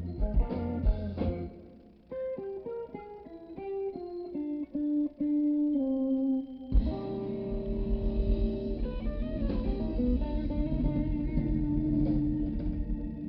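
Live blues band: the band drops out about two seconds in, leaving an electric guitar playing a lick of single notes alone, and the full band with drums and bass comes back in about seven seconds in.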